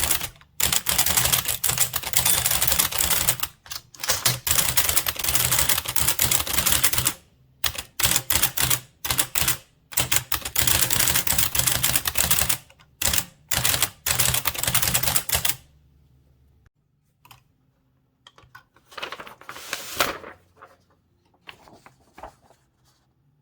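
Blickensderfer typewriter being typed on, in fast runs of heavy key strokes broken by short pauses. The typing stops about two-thirds of the way through, and a few fainter noises follow.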